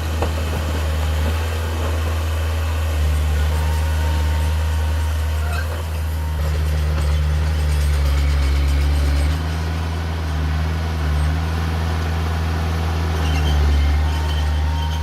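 Heavy diesel engine of earthmoving equipment running steadily, a deep low drone that shifts slightly in pitch about three seconds and nine seconds in.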